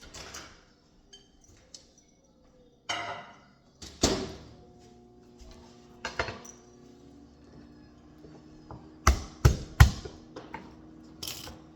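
Kitchenware being handled: scattered knocks and clinks of pots, dishes and utensils being set down, with a cluster of the sharpest, loudest knocks about nine to ten seconds in, over a faint steady hum.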